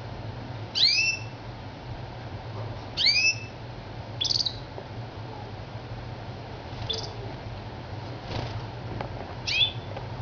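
Crested canary giving short, high chirping calls, five in all, each a quick swooping note, spaced one to three seconds apart.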